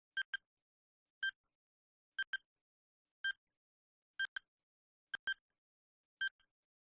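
Countdown timer sound effect: short ticks with a pitched ring, about one a second, several of them doubled, counting down the answer time.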